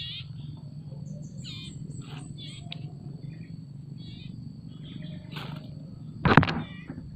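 Small songbird giving short, scattered chirps and calls over a steady low background hum. About six seconds in comes one much louder, harsh sound.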